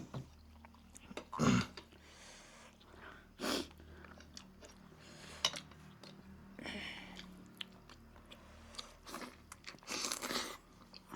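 Close-miked eating sounds: a person chewing and crunching food with wet mouth noises, coming in irregular short bursts.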